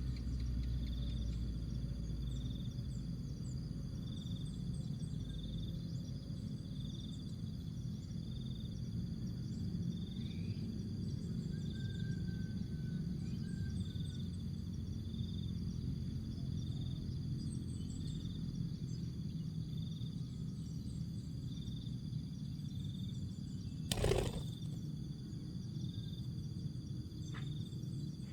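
Outdoor background with a high, thin chirp pulsing steadily about once a second, likely an insect, over a low rumbling haze; a single sharp knock about 24 seconds in and a fainter click near the end.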